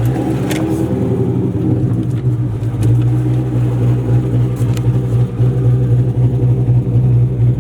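Car engine and exhaust droning steadily while driving at a constant pace, heard from the car.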